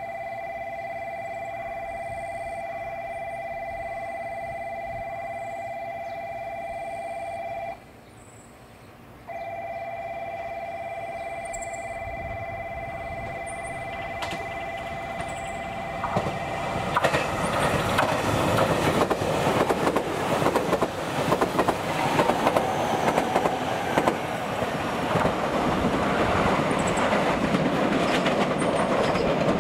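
An electronic level-crossing warning bell rings steadily, breaking off for about a second and a half some eight seconds in. From about sixteen seconds the rumble and wheel clatter of a JR Kyushu 885 series electric express train grows loud as the six-car train approaches and runs through.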